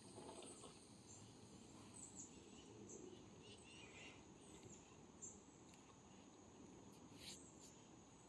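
Near silence: faint outdoor ambience with steady, high-pitched insect calls and a few soft ticks.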